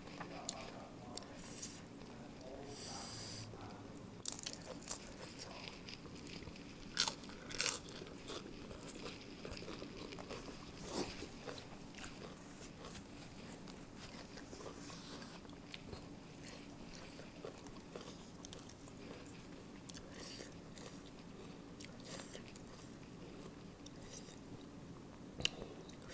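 A person chewing and crunching a mouthful of Thai papaya salad and fresh greens, with a few sharper crunches and clicks now and then.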